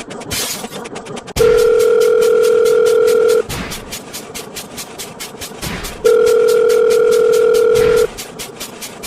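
Telephone ringback tone: a steady two-second tone that sounds twice, about four and a half seconds apart. Fast, evenly spaced clicking runs underneath.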